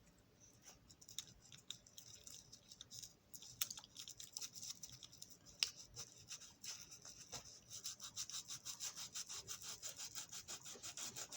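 A small piece of sandpaper rubbed by hand on the metal wheels of a Marx toy locomotive, sanding the wheel rims and bases clean. Scattered strokes at first, then quick, steady back-and-forth strokes, about four a second, from around halfway in.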